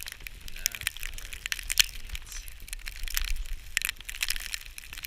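Irregular crunching and crackling, many short cracks in quick, uneven succession, with a faint voice about a second in.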